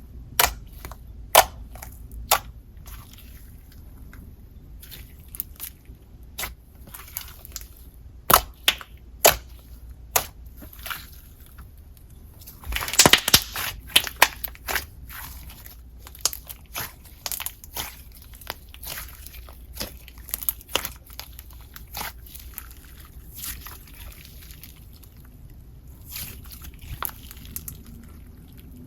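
Float slime with a clear icee top layer being poked and mixed by hand: irregular wet clicks and pops, with a denser stretch of crackling about thirteen seconds in.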